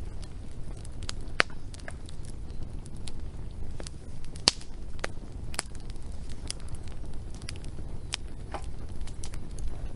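Wood fire crackling, with irregular sharp pops and snaps, the loudest about one and a half and four and a half seconds in, over a steady low rumble.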